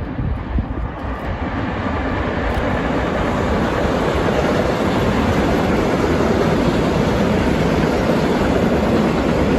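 Electric-hauled freight train passing close by on the Brenner line: a rushing rumble of wheels on rails that swells over the first few seconds as it draws near, then holds steady and loud.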